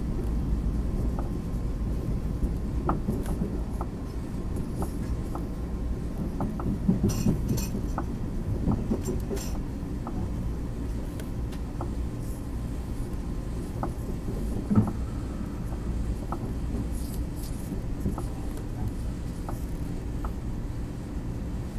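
Steady low rumble of a commuter train running, heard from inside the car, with scattered light clicks and rattles and one sharper knock about fifteen seconds in.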